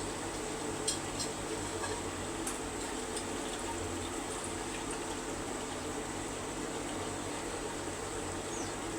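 Chicken curry cooking in a pot on the stove, bubbling and sizzling as a steady hiss, with a few light clicks in the first few seconds.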